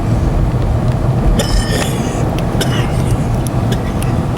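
Steady in-cab drone of a 2013 Dodge Ram 1500's Hemi V8 and its tyres rolling over a snow-covered road. Scattered light clicks and ticks sound over it.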